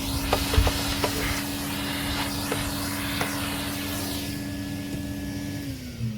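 Vacuum cleaner running with a steady airflow hiss as it picks up drilling swarf, with scattered small clicks of debris going up the nozzle in the first few seconds. The motor winds down a little before the end.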